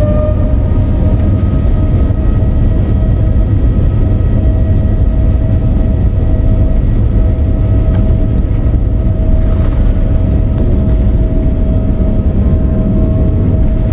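Boeing 787-9 jet engines heard from inside the cabin: a steady high whine over a heavy low rumble, the whine having risen and levelled off just as the sound begins, as the engines settle at high thrust.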